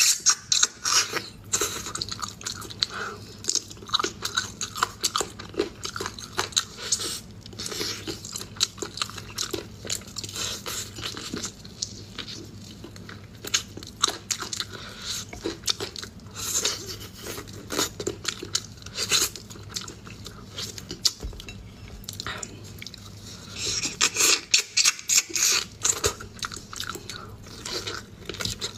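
Close-miked eating of pork ribs: biting and tearing meat off the bone and chewing, a dense run of crunchy clicks. Louder spells of bites come about halfway through and again near the end.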